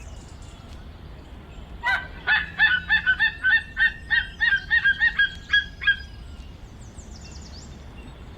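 An animal giving a rapid run of short, pitched calls, about four a second, starting about two seconds in and lasting roughly four seconds over a steady low background hiss.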